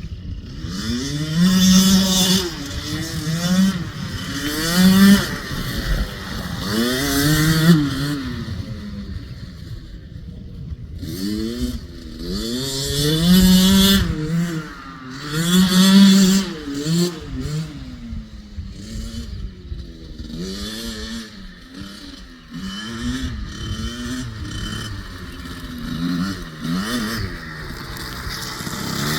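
Husqvarna TC65 65cc two-stroke dirt bike engine revving up and dropping back repeatedly as it is ridden through the gears in mud. It runs louder in two stretches near the start and the middle, and softer toward the end.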